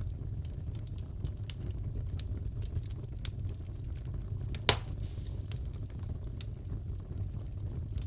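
Crackling fireplace: a steady low rumble of burning with scattered small crackles and one loud pop about halfway through.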